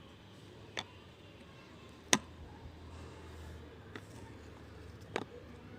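Four light, sharp taps over a faint low room hum, the loudest about two seconds in: a small child handling and pressing animal stickers or pieces into place.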